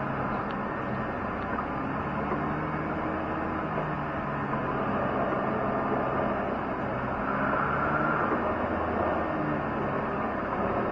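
Diesel engine of heavy snow-plowing equipment running steadily, its pitch shifting a little with the throttle. A higher whine comes up for about a second around seven seconds in.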